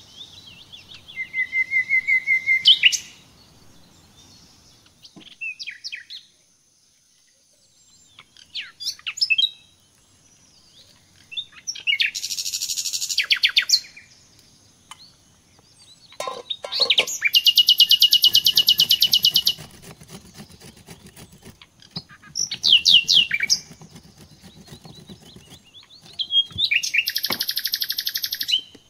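Songbird singing in separate phrases of chirps and fast trills with short pauses between them. The longest phrase, a rapid even trill, comes about two-thirds of the way through.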